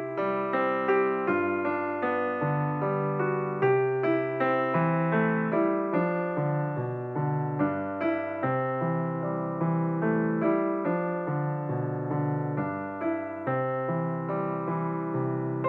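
Background piano music: a calm, steady melody of evenly paced notes over a moving bass line.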